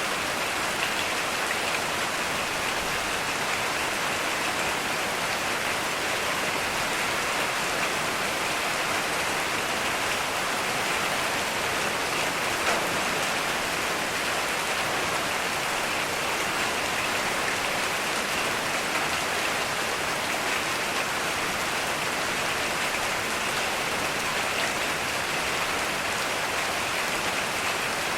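Steady heavy rain, an even hiss of drops with no thunder.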